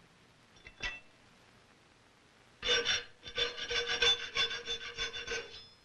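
Hand file scraping across a metal rifle butt plate in quick repeated strokes, starting about two and a half seconds in, with the plate ringing under the file.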